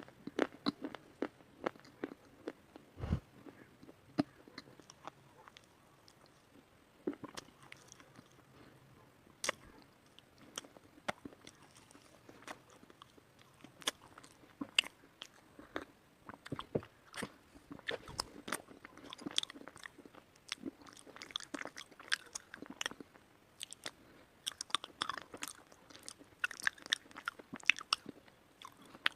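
A person biting and chewing pieces of white slate: sharp, irregular crunches and clicks, coming more thickly toward the end, with one dull thump about three seconds in.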